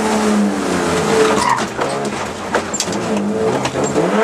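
BMW E30 rally car's engine heard from inside the cabin under hard driving. The revs drop, climb and drop again as it goes through the gears, with short knocks and clatter from the car.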